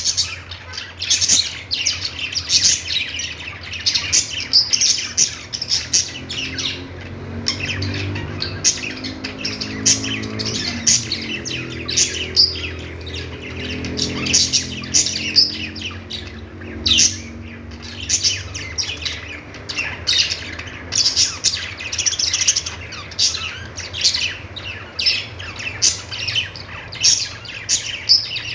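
Budgerigars chirping and squawking: a steady stream of quick, high chirps and warbles, several birds calling over one another.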